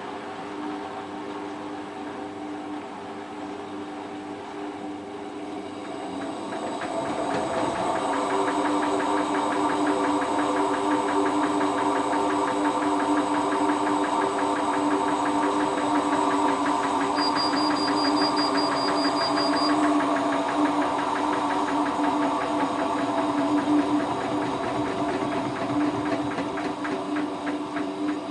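Hotpoint Ultima WT960 washing machine spinning a load of heavy mats: a steady motor and drum hum that gets louder about seven seconds in as the spin picks up. A quick string of high pips sounds about two-thirds of the way through.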